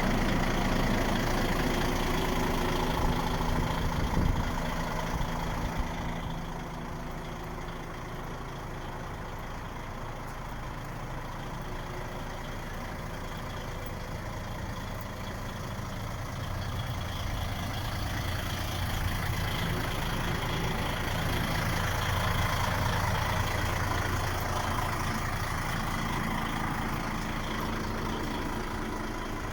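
A DAF XF 95.480 truck's straight-six diesel engine idling steadily. It is louder for the first few seconds, quieter in the middle and louder again in the second half, with a few brief knocks early on.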